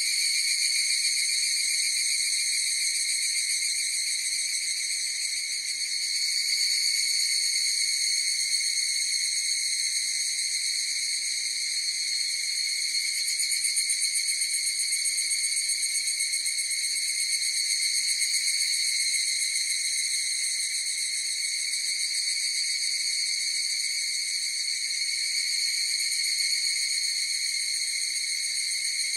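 Chorus of higurashi (evening cicadas) calling, blending into a steady, unbroken high-pitched drone that swells slightly now and then.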